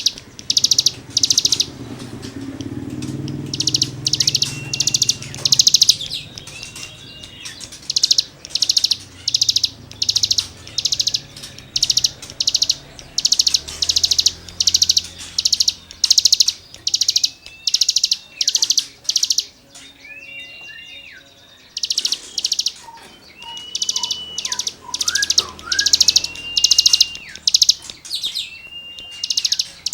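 Cigun songbird singing a long run of short, rasping high notes, a little over one a second, with brief level whistles between them. The song breaks off for about two seconds a little past the middle, then resumes.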